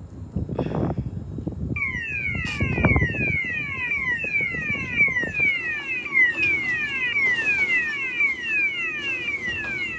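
Automatic gate opener's alarm sounding a rapidly repeating falling tone, about three sweeps a second, starting about two seconds in: the safety sensor has been tripped. Rumbling noise comes before it.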